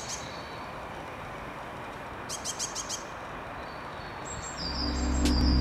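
Small birds chirping over steady background noise, in two quick runs of short chirps, the second about two and a half seconds in. Music fades in underneath near the end.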